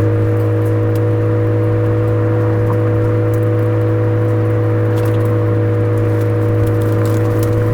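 Suzuki Swift Sport ZC33S's 1.4-litre turbocharged four-cylinder running through an aftermarket Fujitsubo exhaust, holding a steady engine speed with a constant low drone. A few faint light ticks sit over it.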